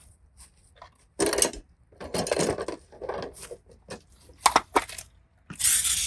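Small hard objects and supplies being handled: a series of rustles and knocks, a sharp click, then a louder hissing burst of about a second near the end.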